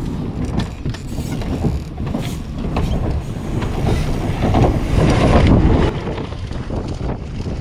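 Wind rushing over the microphone with the tyre roar and clattering of a downhill mountain bike ridden fast down a dirt jump line, loudest about four and a half seconds in, easing off near six seconds.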